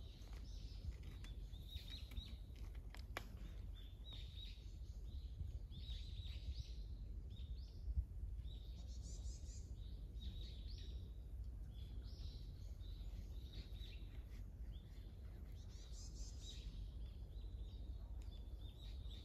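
Small birds chirping and singing in repeated short, high phrases over a low steady rumble, with a single click about three seconds in and a short knock about eight seconds in.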